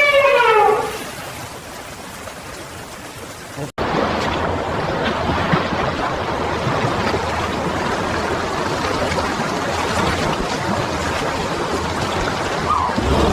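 Fast-flowing river water rushing steadily. It is quieter at first and cuts in louder and abruptly near four seconds in. The tail of an animal call falling in pitch ends about a second in.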